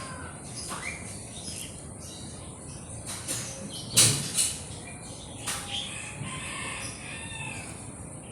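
Chickens clucking and calling in the background, with a few short, sharp noisy bursts; the loudest comes about four seconds in.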